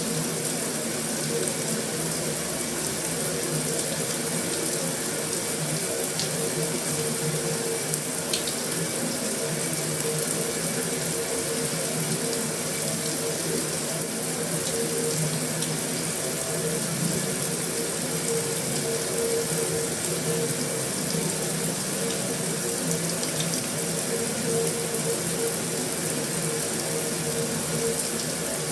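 Steady heavy rain on a metal roof: an even, unbroken hiss with a few faint sharper drop taps.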